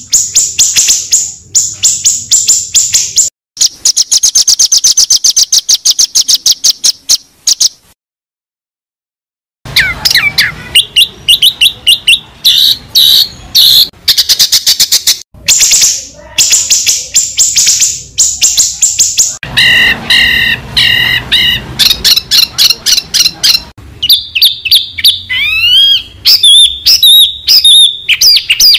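Songbird song played as a masteran tutor track for training white-rumped shamas. About eight seconds of rapid, evenly repeated high buzzy chirps break off into a second and a half of silence, then give way to varied, loud whistled phrases with rising and falling glides.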